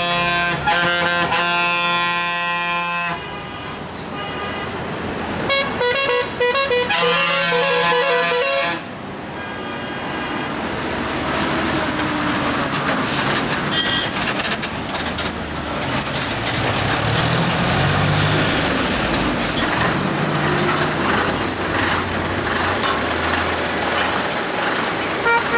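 Vehicle horns: one long blast of steady pitch, then a few seconds later a run of horn notes stepping between pitches like a musical truck horn. After that a heavy vehicle's engine runs steadily under load, its low pitch rising and falling slowly as it works through the hairpin bend.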